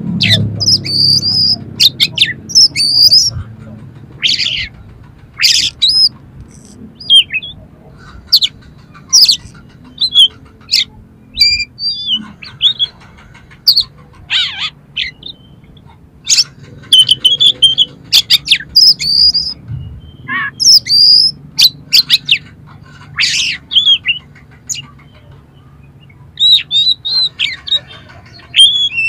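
Oriental magpie-robin (kacer) singing in rough, harsh phrases: a run of loud, sharp, high-pitched notes and chattering calls, some sliding up or down, separated by short pauses.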